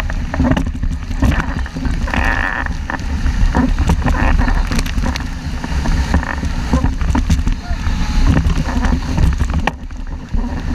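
Strong wind buffeting the microphone on a 470 sailing dinghy, with water rushing and splashing against the hull as it sails fast in a 5–6 Beaufort breeze. A brief higher-pitched sound rises over it about two seconds in.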